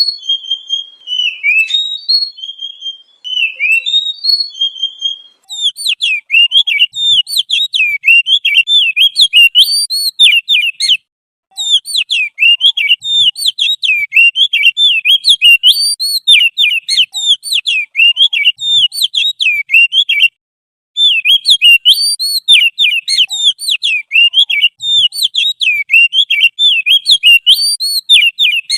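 Recorded songbird song, looped as a masteran tutoring track: a few slow, whistled, falling phrases, then from about five seconds in a fast, unbroken twittering chatter that stops briefly twice.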